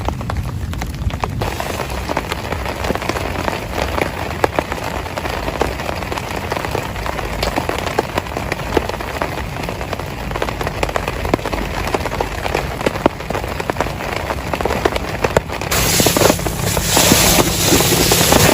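Heavy rain pattering on a surface, full of sharp drop clicks. About 16 s in it turns suddenly louder and hissier.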